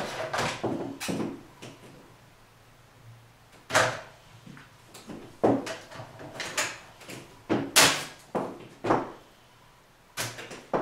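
A series of irregular knocks and bangs, some close together, with a quiet gap early on between them.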